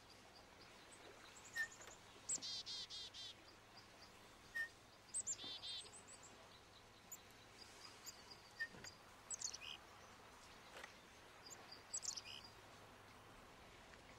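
Songbirds chirping and singing faintly over a low steady hiss: a run of quick repeated notes a little over two seconds in and again about five seconds in, with scattered short high chirps.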